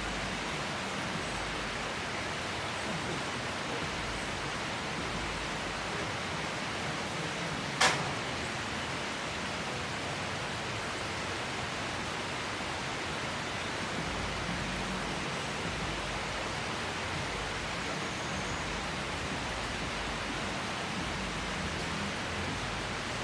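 Steady rain falling, an even hiss throughout, with one sharp knock about eight seconds in.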